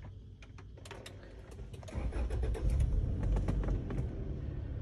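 A few clicks, then the Toyota Prado's engine starts about two seconds in with the push-button start and settles into a steady low idle.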